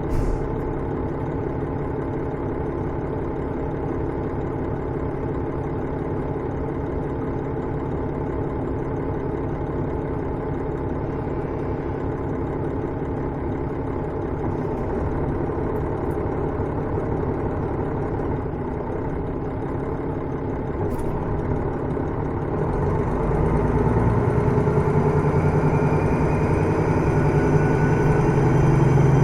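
The diesel engine of KiHa 110 series railcar KiHa 112-3 idles steadily, heard from inside the car. A little over 20 s in there is a click, and then the engine is throttled up: it grows louder and rises in pitch as the train begins to pull away.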